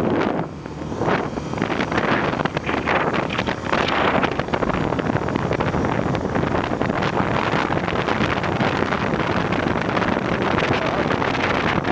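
Wind rushing and buffeting over the microphone of a moving motorcycle, a loud, steady, gusting roar with the ride's road noise under it.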